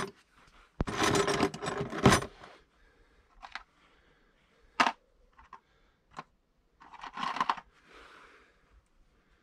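Metal spanners clinking and scraping against nuts and bolts. There is a dense metallic rattle lasting about a second and a half near the start, then scattered sharp clinks and another short rattle near the end.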